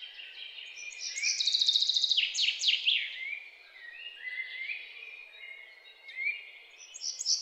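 Birds singing and calling: high rapid trills, quick falling sweeps and short rising whistled notes, over faint background hiss.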